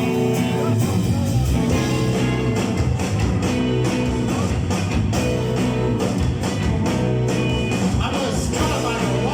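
Live rock band playing a song with electric guitar and singing.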